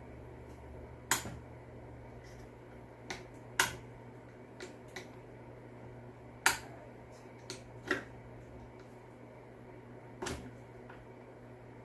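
Sharp little metal clicks and taps, about nine at uneven intervals, as a flathead screwdriver tip pries at and slips off a piston ring stuck in its groove on a Poulan Pro PBV 200 LE leaf blower piston, with a low steady hum underneath.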